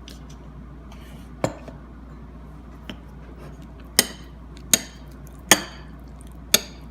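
A spoon clinking sharply against a bowl, five or six separate clinks that get louder and closer together in the second half.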